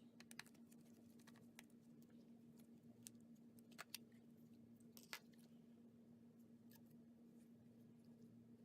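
Near silence: a faint steady hum with scattered small sharp clicks and ticks, most of them in the first five seconds.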